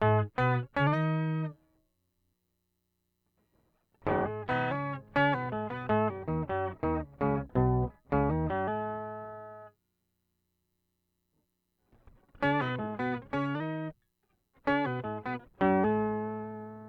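Electric guitar played through a Boss OC-5 octave pedal: short phrases of quickly picked single notes with strong low octave tones under them, broken by silent pauses of about two seconds. The last note is left to ring and fades slowly.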